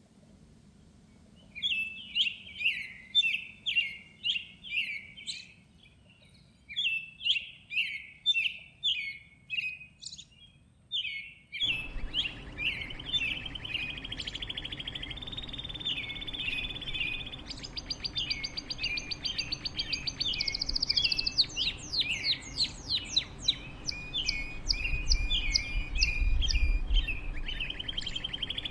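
Songbirds singing in repeated short phrases of bright chirps. About twelve seconds in, a steady hiss of background noise starts abruptly under the song, and a rapid high trill joins it in the middle.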